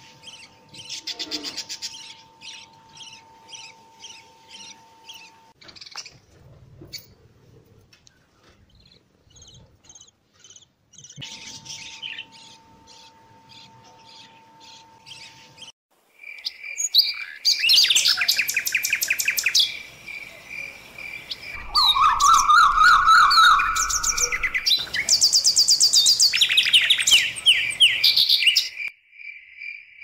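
Budgerigar chicks in the nest giving short, repeated, fairly faint begging peeps, a few a second. About halfway through, much louder bird calls and trills take over, over a steady pulsing cricket-like chirr.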